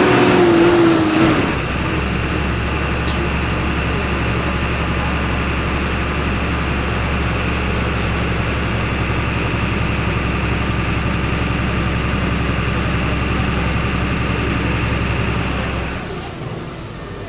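Diesel engine of a Volkswagen 17.230 EOD city bus, heard from inside the bus: the revs fall away to idle in the first second or so, then it idles steadily until it drops away near the end. A steady high beep sounds for the first three seconds.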